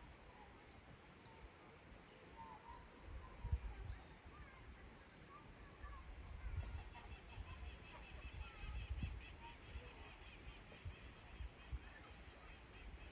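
Faint rural evening ambience: scattered bird chirps, and from about halfway a fast, evenly repeated ticking call, over an irregular low rumble that comes and goes in gusts.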